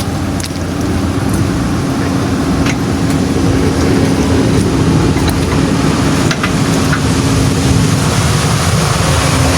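A diesel engine running steadily with a low rumble and a steady hum, getting a little louder over the first few seconds, with a few sharp clicks over it.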